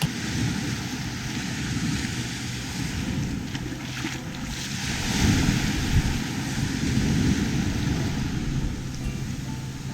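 Small waves washing onto a sandy shore, with wind buffeting the microphone in a low rumble that swells a few seconds in.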